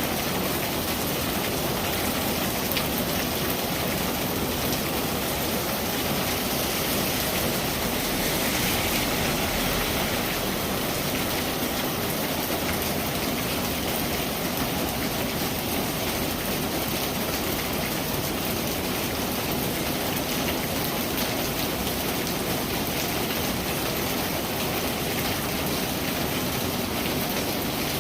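Steady rain falling, a constant hiss with many fine drop ticks on surfaces.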